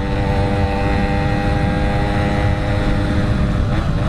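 Yamaha RX King's two-stroke single-cylinder engine running at a steady speed while riding, over a low rumble of wind noise. The engine note dips briefly near the end, as the throttle eases.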